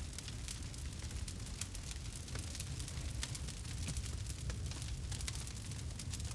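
Campfire burning: many small, quick crackles and pops from the burning wood over a steady low rumble.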